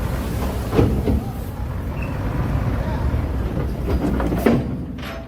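Diesel engine of heavy earthmoving machinery running steadily, with a few sharp knocks, about a second in and again near the end.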